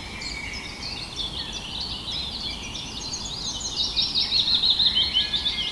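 Wild birds singing and chirping over a steady outdoor background hiss, with a quick run of repeated high chirps about four seconds in.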